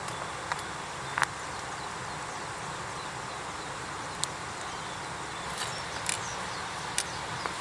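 Campfire crackling: a few sharp pops and snaps spread irregularly over a steady background hiss.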